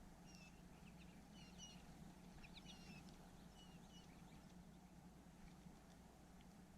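Small songbirds at a feeder giving faint, short high chirps, a dozen or so scattered through the first half, over a faint steady low hum.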